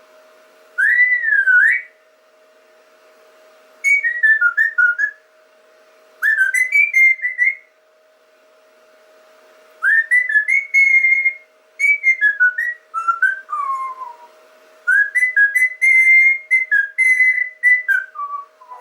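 Whistling in short melodic phrases, gliding and stepping up and down in pitch, with pauses of a second or two between phrases. A faint steady hum runs underneath.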